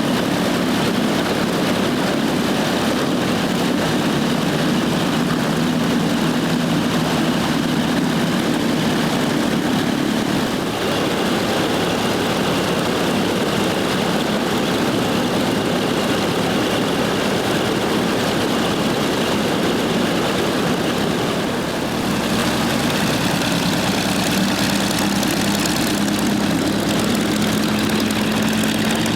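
Corsair's Pratt & Whitney R-2800 Double Wasp radial engine and propeller running steadily at low power, its pitch rising slightly near the end as the power comes up.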